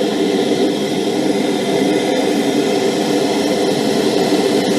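Hand-held MAP gas torch burning steadily with a constant rushing flame noise, heating a seized brake pipe union to free it.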